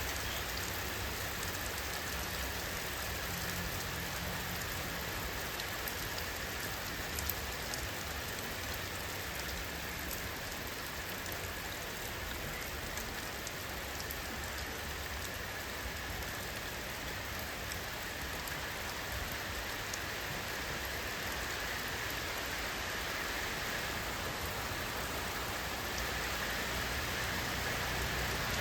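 Steady rainfall: a dense, even hiss of rain on surfaces with scattered individual drop ticks.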